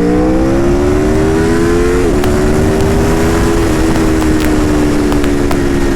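Aprilia RSV4 RF's V4 engine accelerating on the road, its pitch rising for about two seconds, dropping suddenly, then holding nearly steady at cruise. Heavy wind rush runs under it.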